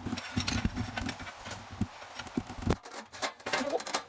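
Iron parts of a BUNDOK VERSA folding fire pit knocking and clanking against each other as it is being assembled: irregular knocks, with a louder one about three seconds in.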